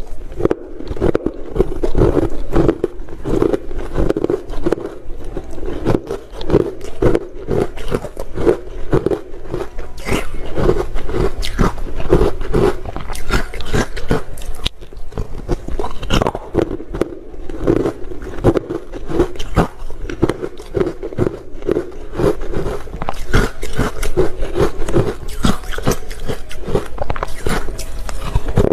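Close-up biting and chewing of ice, with rapid, irregular crunching that goes on without a break.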